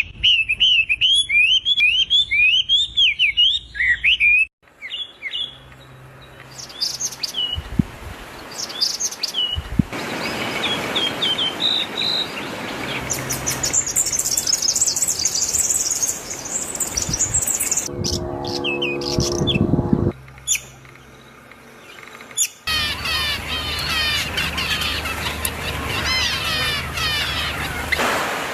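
Bird calls from a string of spliced recordings: quick rising chirps, then higher trills and twitters, each segment cutting abruptly to the next every few seconds. About two-thirds through comes a lower, harsher call.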